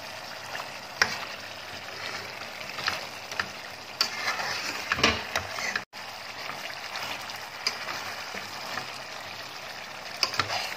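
Houbara bustard meat sizzling in ghee and tomato masala in a steel pot while it is stirred at the bhuna stage. A metal spoon clicks and scrapes against the pot several times.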